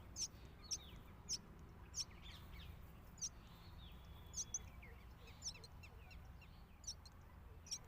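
Myna chick begging: short, high chirps repeated irregularly, roughly one a second.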